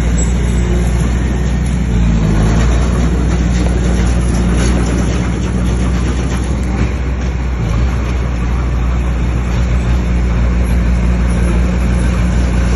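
Bulldozer's diesel engine running under load, with a steady low engine note that turns rougher and less even for a few seconds in the middle.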